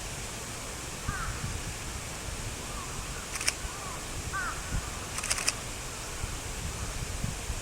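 A bird giving short, arched calls five or six times, with a few sharp clicks about three and a half and five and a half seconds in, the second a quick double click. A low rumble runs underneath.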